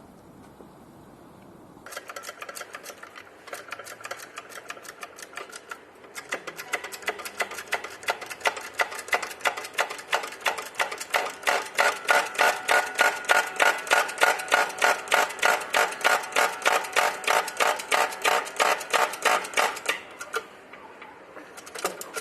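Shop press pressing a new wheel bearing into a steering knuckle: a long run of sharp metallic clicks, about three a second, growing louder from about six seconds in and stopping shortly before the end.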